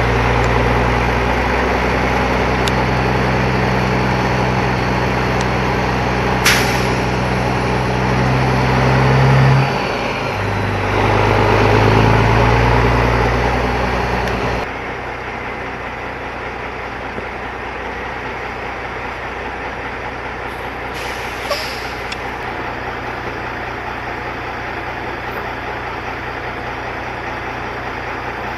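Heavy diesel truck engine pulling, its pitch climbing, then breaking off briefly about ten seconds in, as at a gear change. It pulls again, then drops to a lower, steady run about fifteen seconds in. A single sharp click comes early on.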